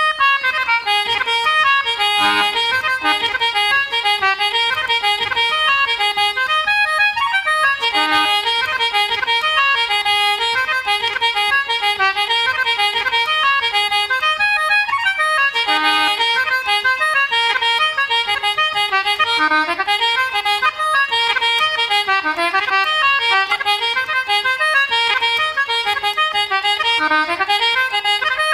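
Accordion playing an instrumental Irish traditional tune, a quick, steady run of notes with no singing.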